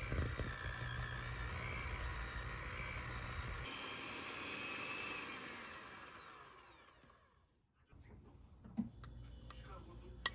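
A small electric motor runs with a wavering whine. About five seconds in it is switched off and whines down to a stop. A few light clinks follow right at the end.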